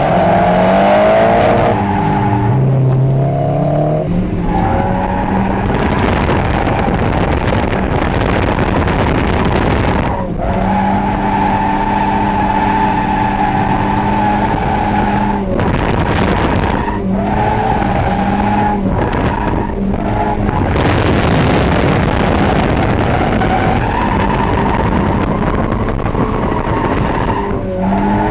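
Mazda Eunos Roadster's 1.6-litre four-cylinder engine heard from inside the cabin, running hard at high revs while drifting, under a steady noise of the tyres sliding. Its note holds a high, steady pitch, breaks off briefly several times as the driver shifts or lifts, and picks up again.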